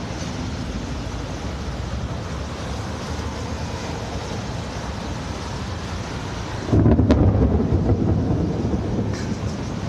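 Thunderstorm: a steady hiss of storm noise, then a sudden loud clap of thunder about two-thirds of the way in that rumbles on and slowly fades.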